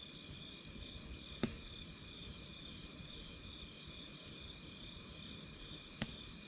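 Wood campfire with a low crackle and two sharp pops, one about a second and a half in and one near the end. Under it runs a steady, high-pitched insect trill like crickets.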